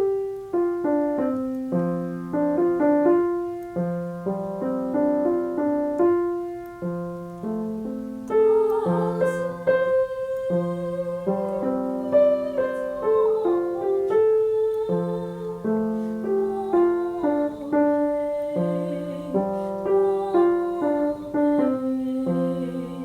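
Piano playing a song accompaniment: repeated chord figures over a moving bass line, each note struck and fading.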